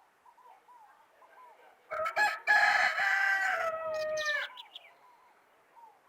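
A rooster crowing once, about two seconds in: a short broken opening, then a long held note that drops off at the end. Faint chirping of small birds goes on throughout.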